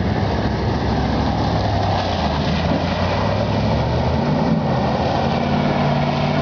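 A 1984 Dodge Ram pickup's engine running as the truck drives through flood water. Its note rises about four seconds in and holds higher.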